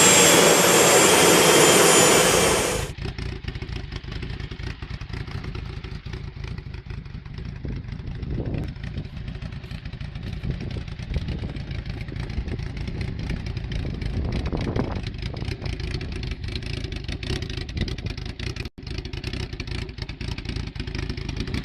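Loud rushing noise with a falling whine that cuts off abruptly about three seconds in, followed by an engine running steadily at a lower level, its sound mostly a low rumble.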